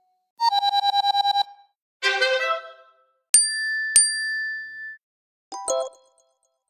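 A series of short iPhone alert and text tones played one after another with gaps between them: a fast run of about ten identical beeps, a brief chime, two bell-like dings about half a second apart that ring on, then a short jingle near the end.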